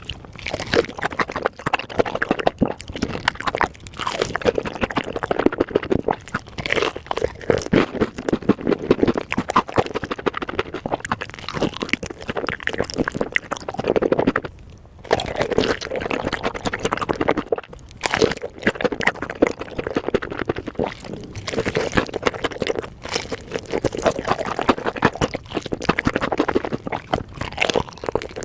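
Close-miked chewing and biting of a spicy chicken leg piece: dense, wet crunching and mouth noises, with a short pause about halfway through.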